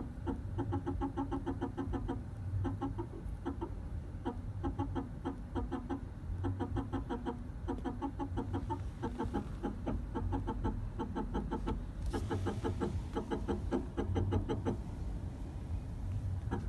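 2008 Toyota Prius brake system chattering in rapid bursts of quick pulses, with a low hum coming and going, while the brake pedal is pressed harder than usual with the car stopped.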